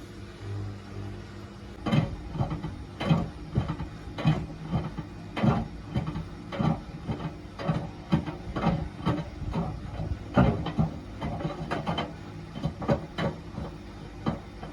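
Washing machine drum turning with a frozen cider container tumbling inside it, knocking against the drum in irregular thuds about once a second over the motor's low hum.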